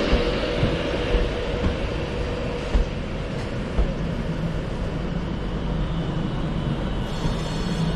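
A train moving through a station: a steady rumble and rattle of wheels and running gear with occasional low knocks. A faint steady whine sets in near the end.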